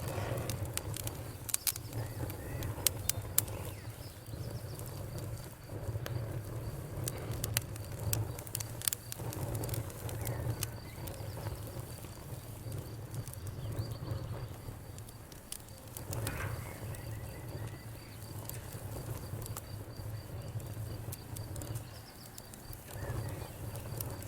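Wood fire crackling in a fireplace: sharp pops and snaps, thickest in the first few seconds and scattered after, over a low steady rumble of burning.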